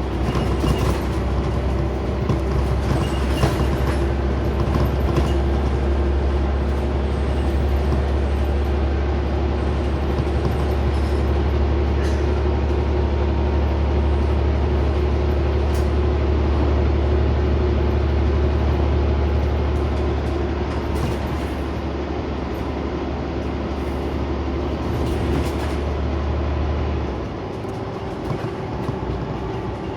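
Onboard a Scania Omnicity single-deck bus under way: steady engine drone and road noise with scattered rattles from the body. The deep engine drone falls away near the end as the load comes off.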